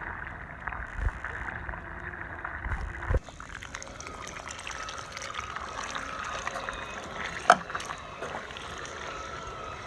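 Swimming pool water sloshing and gurgling as a robotic pool cleaner works through it, with one sharp tap about seven and a half seconds in.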